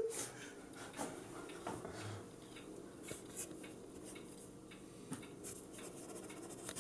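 A pen scratching faintly in short, irregular strokes as someone writes a signature.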